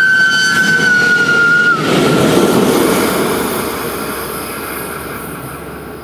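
Freight train passing on a curve, with an SBB Ae 6/6 electric locomotive pushing at the rear. Wheel squeal holds as a steady high tone until about two seconds in, then the rumble of the locomotive going by fades away.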